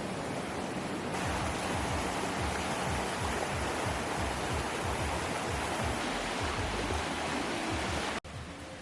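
Steady wash of water noise, growing louder about a second in and breaking off abruptly near the end, giving way to quieter ambience.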